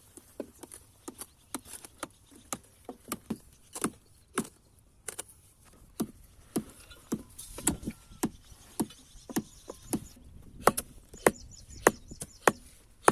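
Repeated sharp knocks or strikes, roughly two a second and somewhat irregular, growing louder in the second half.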